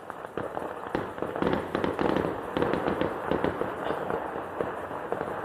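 Fireworks going off in a rapid, irregular barrage of pops and bangs over continuous crackling, busiest about one and a half to three and a half seconds in.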